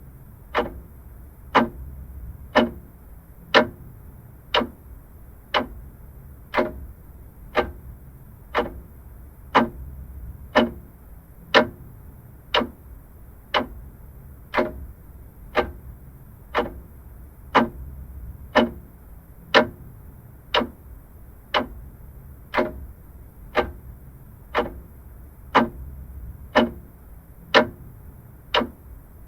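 Vintage mechanical clock ticking steadily, about one tick a second, the ticks alternating slightly in strength like a tick-tock, over a faint low hum.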